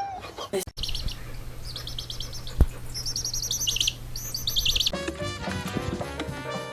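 A small bird chirping in repeated quick runs of high, falling notes over a steady low hum. About five seconds in, the chirping gives way to music.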